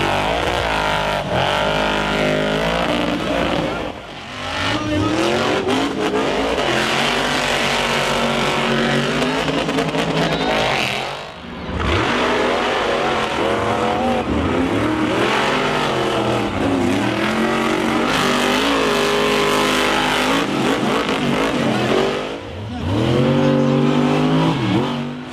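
Monster truck engine revving hard, its pitch climbing and falling again and again. The sound drops away briefly three times as the throttle comes off.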